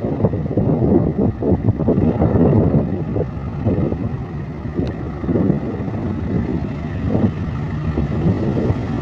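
Train running past at close range: a rumbling, rattling noise with uneven surges, mixed with wind buffeting the microphone.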